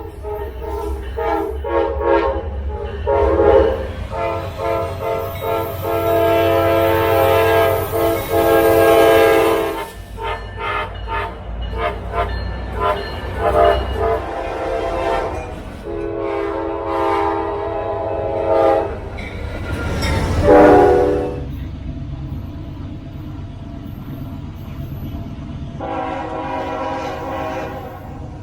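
Freight locomotive air horn sounding a chord in a series of blasts: several short ones near the start, then long blasts of several seconds each, with shorter ones in between. A steady low diesel rumble runs underneath.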